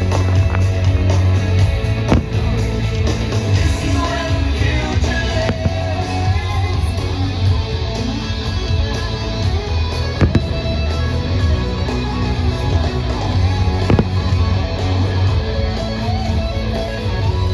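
Fireworks-show soundtrack music with a heavy, steady bass, and several sharp firework bangs cutting through it at irregular intervals.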